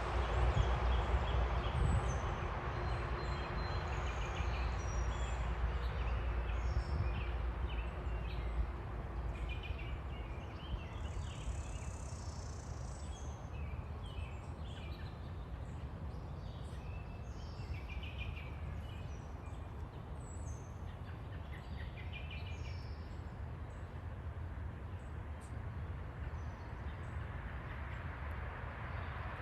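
Small birds chirping and twittering in short, scattered calls over a low, steady background rumble, which is heavier in the first several seconds.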